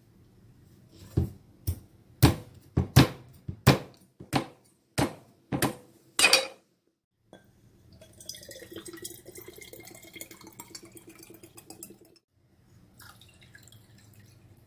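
About ten sharp chopping strikes of a blade into a young coconut, coming roughly every half second, then a few seconds of liquid trickling and dripping as the coconut water runs out.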